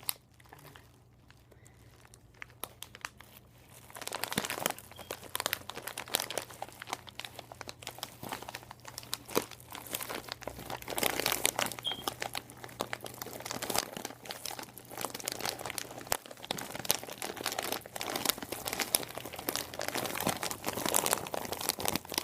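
Crinkling and crumpling of a crinkly material handled by hand, made as ASMR trigger sounds: a few scattered crackles at first, then dense, irregular crackling from about four seconds in.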